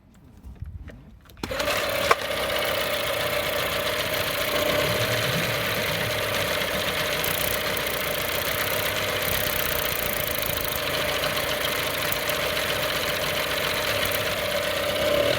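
Johnson 9.9 hp outboard motor starting about a second and a half in, then running steadily with a constant tone and a sharp click shortly after it catches; the owner calls its sound a weird noise.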